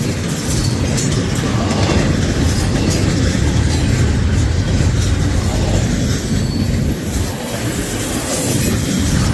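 Freight train cars rolling past at close range: a steady rumble of steel wheels on rail with light clicks over the rail joints.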